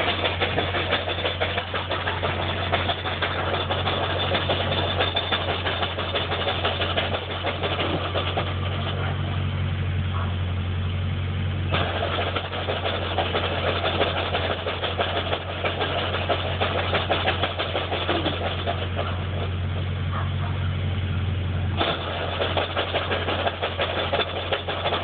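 Manual-transmission car engine idling with a steady low drone and a rattly whirring noise over it that the owner suspects is a bad clutch throwout bearing. The noise fades a little twice and comes back suddenly, about halfway through and again near the end.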